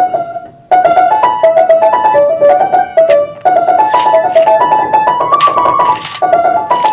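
Piano playing a melody of quick single notes in short phrases, with brief breaks about half a second in, after about three seconds, and again about six seconds in; the line climbs higher in the middle phrase.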